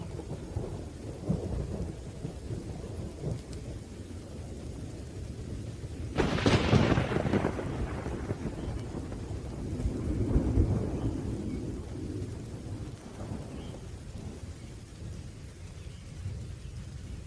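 Thunderstorm with rain falling and low thunder rumbling throughout. A sharp thunderclap comes about six seconds in, and another long roll of thunder swells around ten seconds in.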